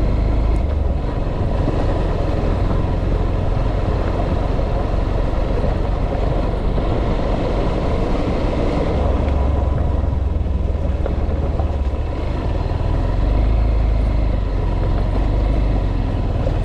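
A motor vehicle running steadily on the move, a continuous low rumble of engine and road noise.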